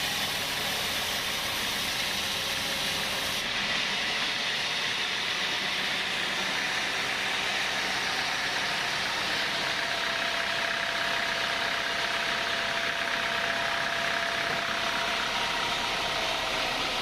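Sawmill machinery running steadily, a continuous mechanical noise with no breaks. The highest hiss drops away about three seconds in.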